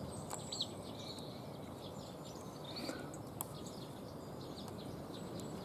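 Small birds chirping and calling in short, scattered notes over a steady background hiss, with a couple of sharp clicks.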